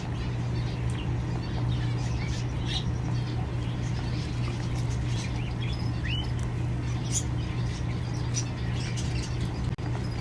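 Small birds chirping and squeaking, many short scattered calls with one rising chirp about six seconds in, over a steady low hum.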